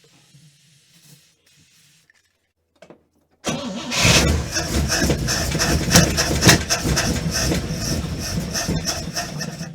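1955 Pontiac's 287 V8 cranked and catching about three and a half seconds in, then running unevenly on fuel poured down its two-barrel carburetor: a cold start at 7°F with no choke.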